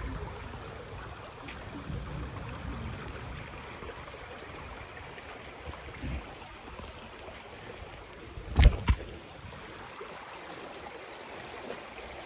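Stream water running steadily, with a thin high hiss above it. About two-thirds of the way through, two loud knocks come close together.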